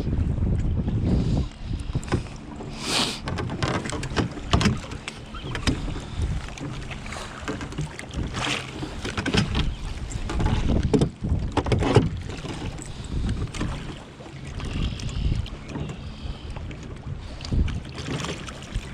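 Canoe out on open water: wind rumbles on the microphone for the first second or so, then water slaps against the hull among scattered knocks and clicks of gear in the boat.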